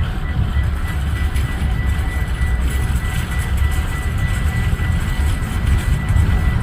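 A train passing with a heavy, steady low rumble, and a thin high-pitched tone held throughout.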